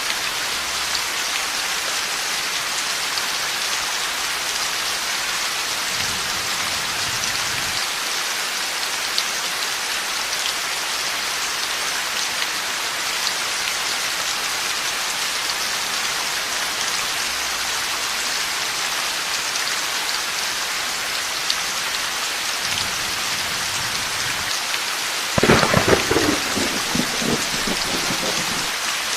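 Steady heavy rain, with a sudden loud thunderclap near the end that crackles and rumbles away over a few seconds. Fainter low thunder rumbles twice earlier on.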